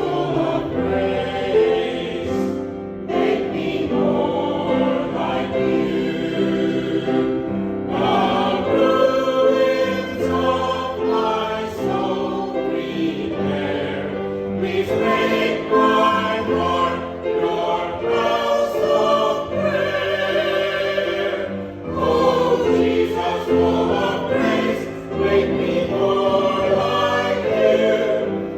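Many voices singing a hymn together in sustained phrases, with brief pauses between lines.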